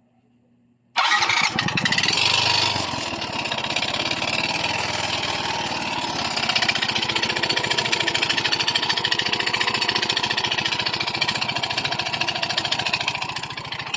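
Yamaha Mio i 125 scooter's single-cylinder engine running with a fast, steady metallic knocking and rattling: piston slap from a damaged piston, with ticking from the cylinder head. The sound cuts in suddenly about a second in and is louder for the first couple of seconds, then settles into steady running.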